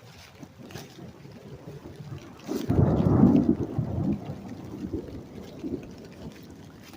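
Thunder: a loud clap about two and a half seconds in that rolls on as a low rumble, dying away over the next few seconds, over steady rain with scattered drops ticking.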